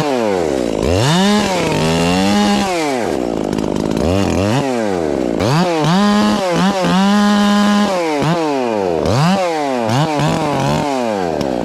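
Chainsaw revving up and down over and over while cutting brush to clear a work zone around a tree, with two longer stretches held steady at high speed, about a second and a half in and again around six seconds in.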